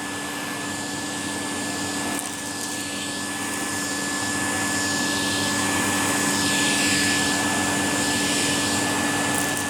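Numatic Henry vacuum cleaner running steadily, picking up small stones from a carpet: an even rush of air with a constant high whine, growing a little louder about halfway through.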